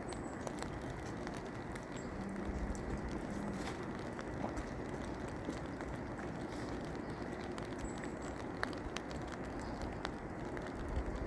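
Steady rain falling, a continuous hiss with scattered sharp ticks of individual drops hitting close by.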